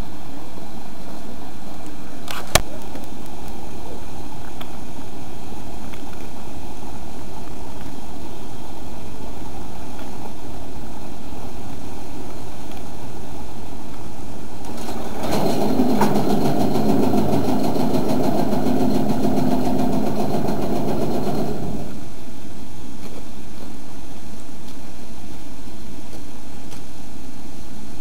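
Sumpter Valley Railroad's Heisler geared steam locomotive working, a steady mechanical noise with a sharp click a couple of seconds in. From about halfway, a louder, pitched sound lasts about six seconds, then cuts off.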